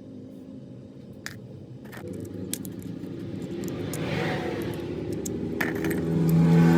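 Keys jangling and a few sharp metallic clicks, over a steady low hum that grows louder toward the end.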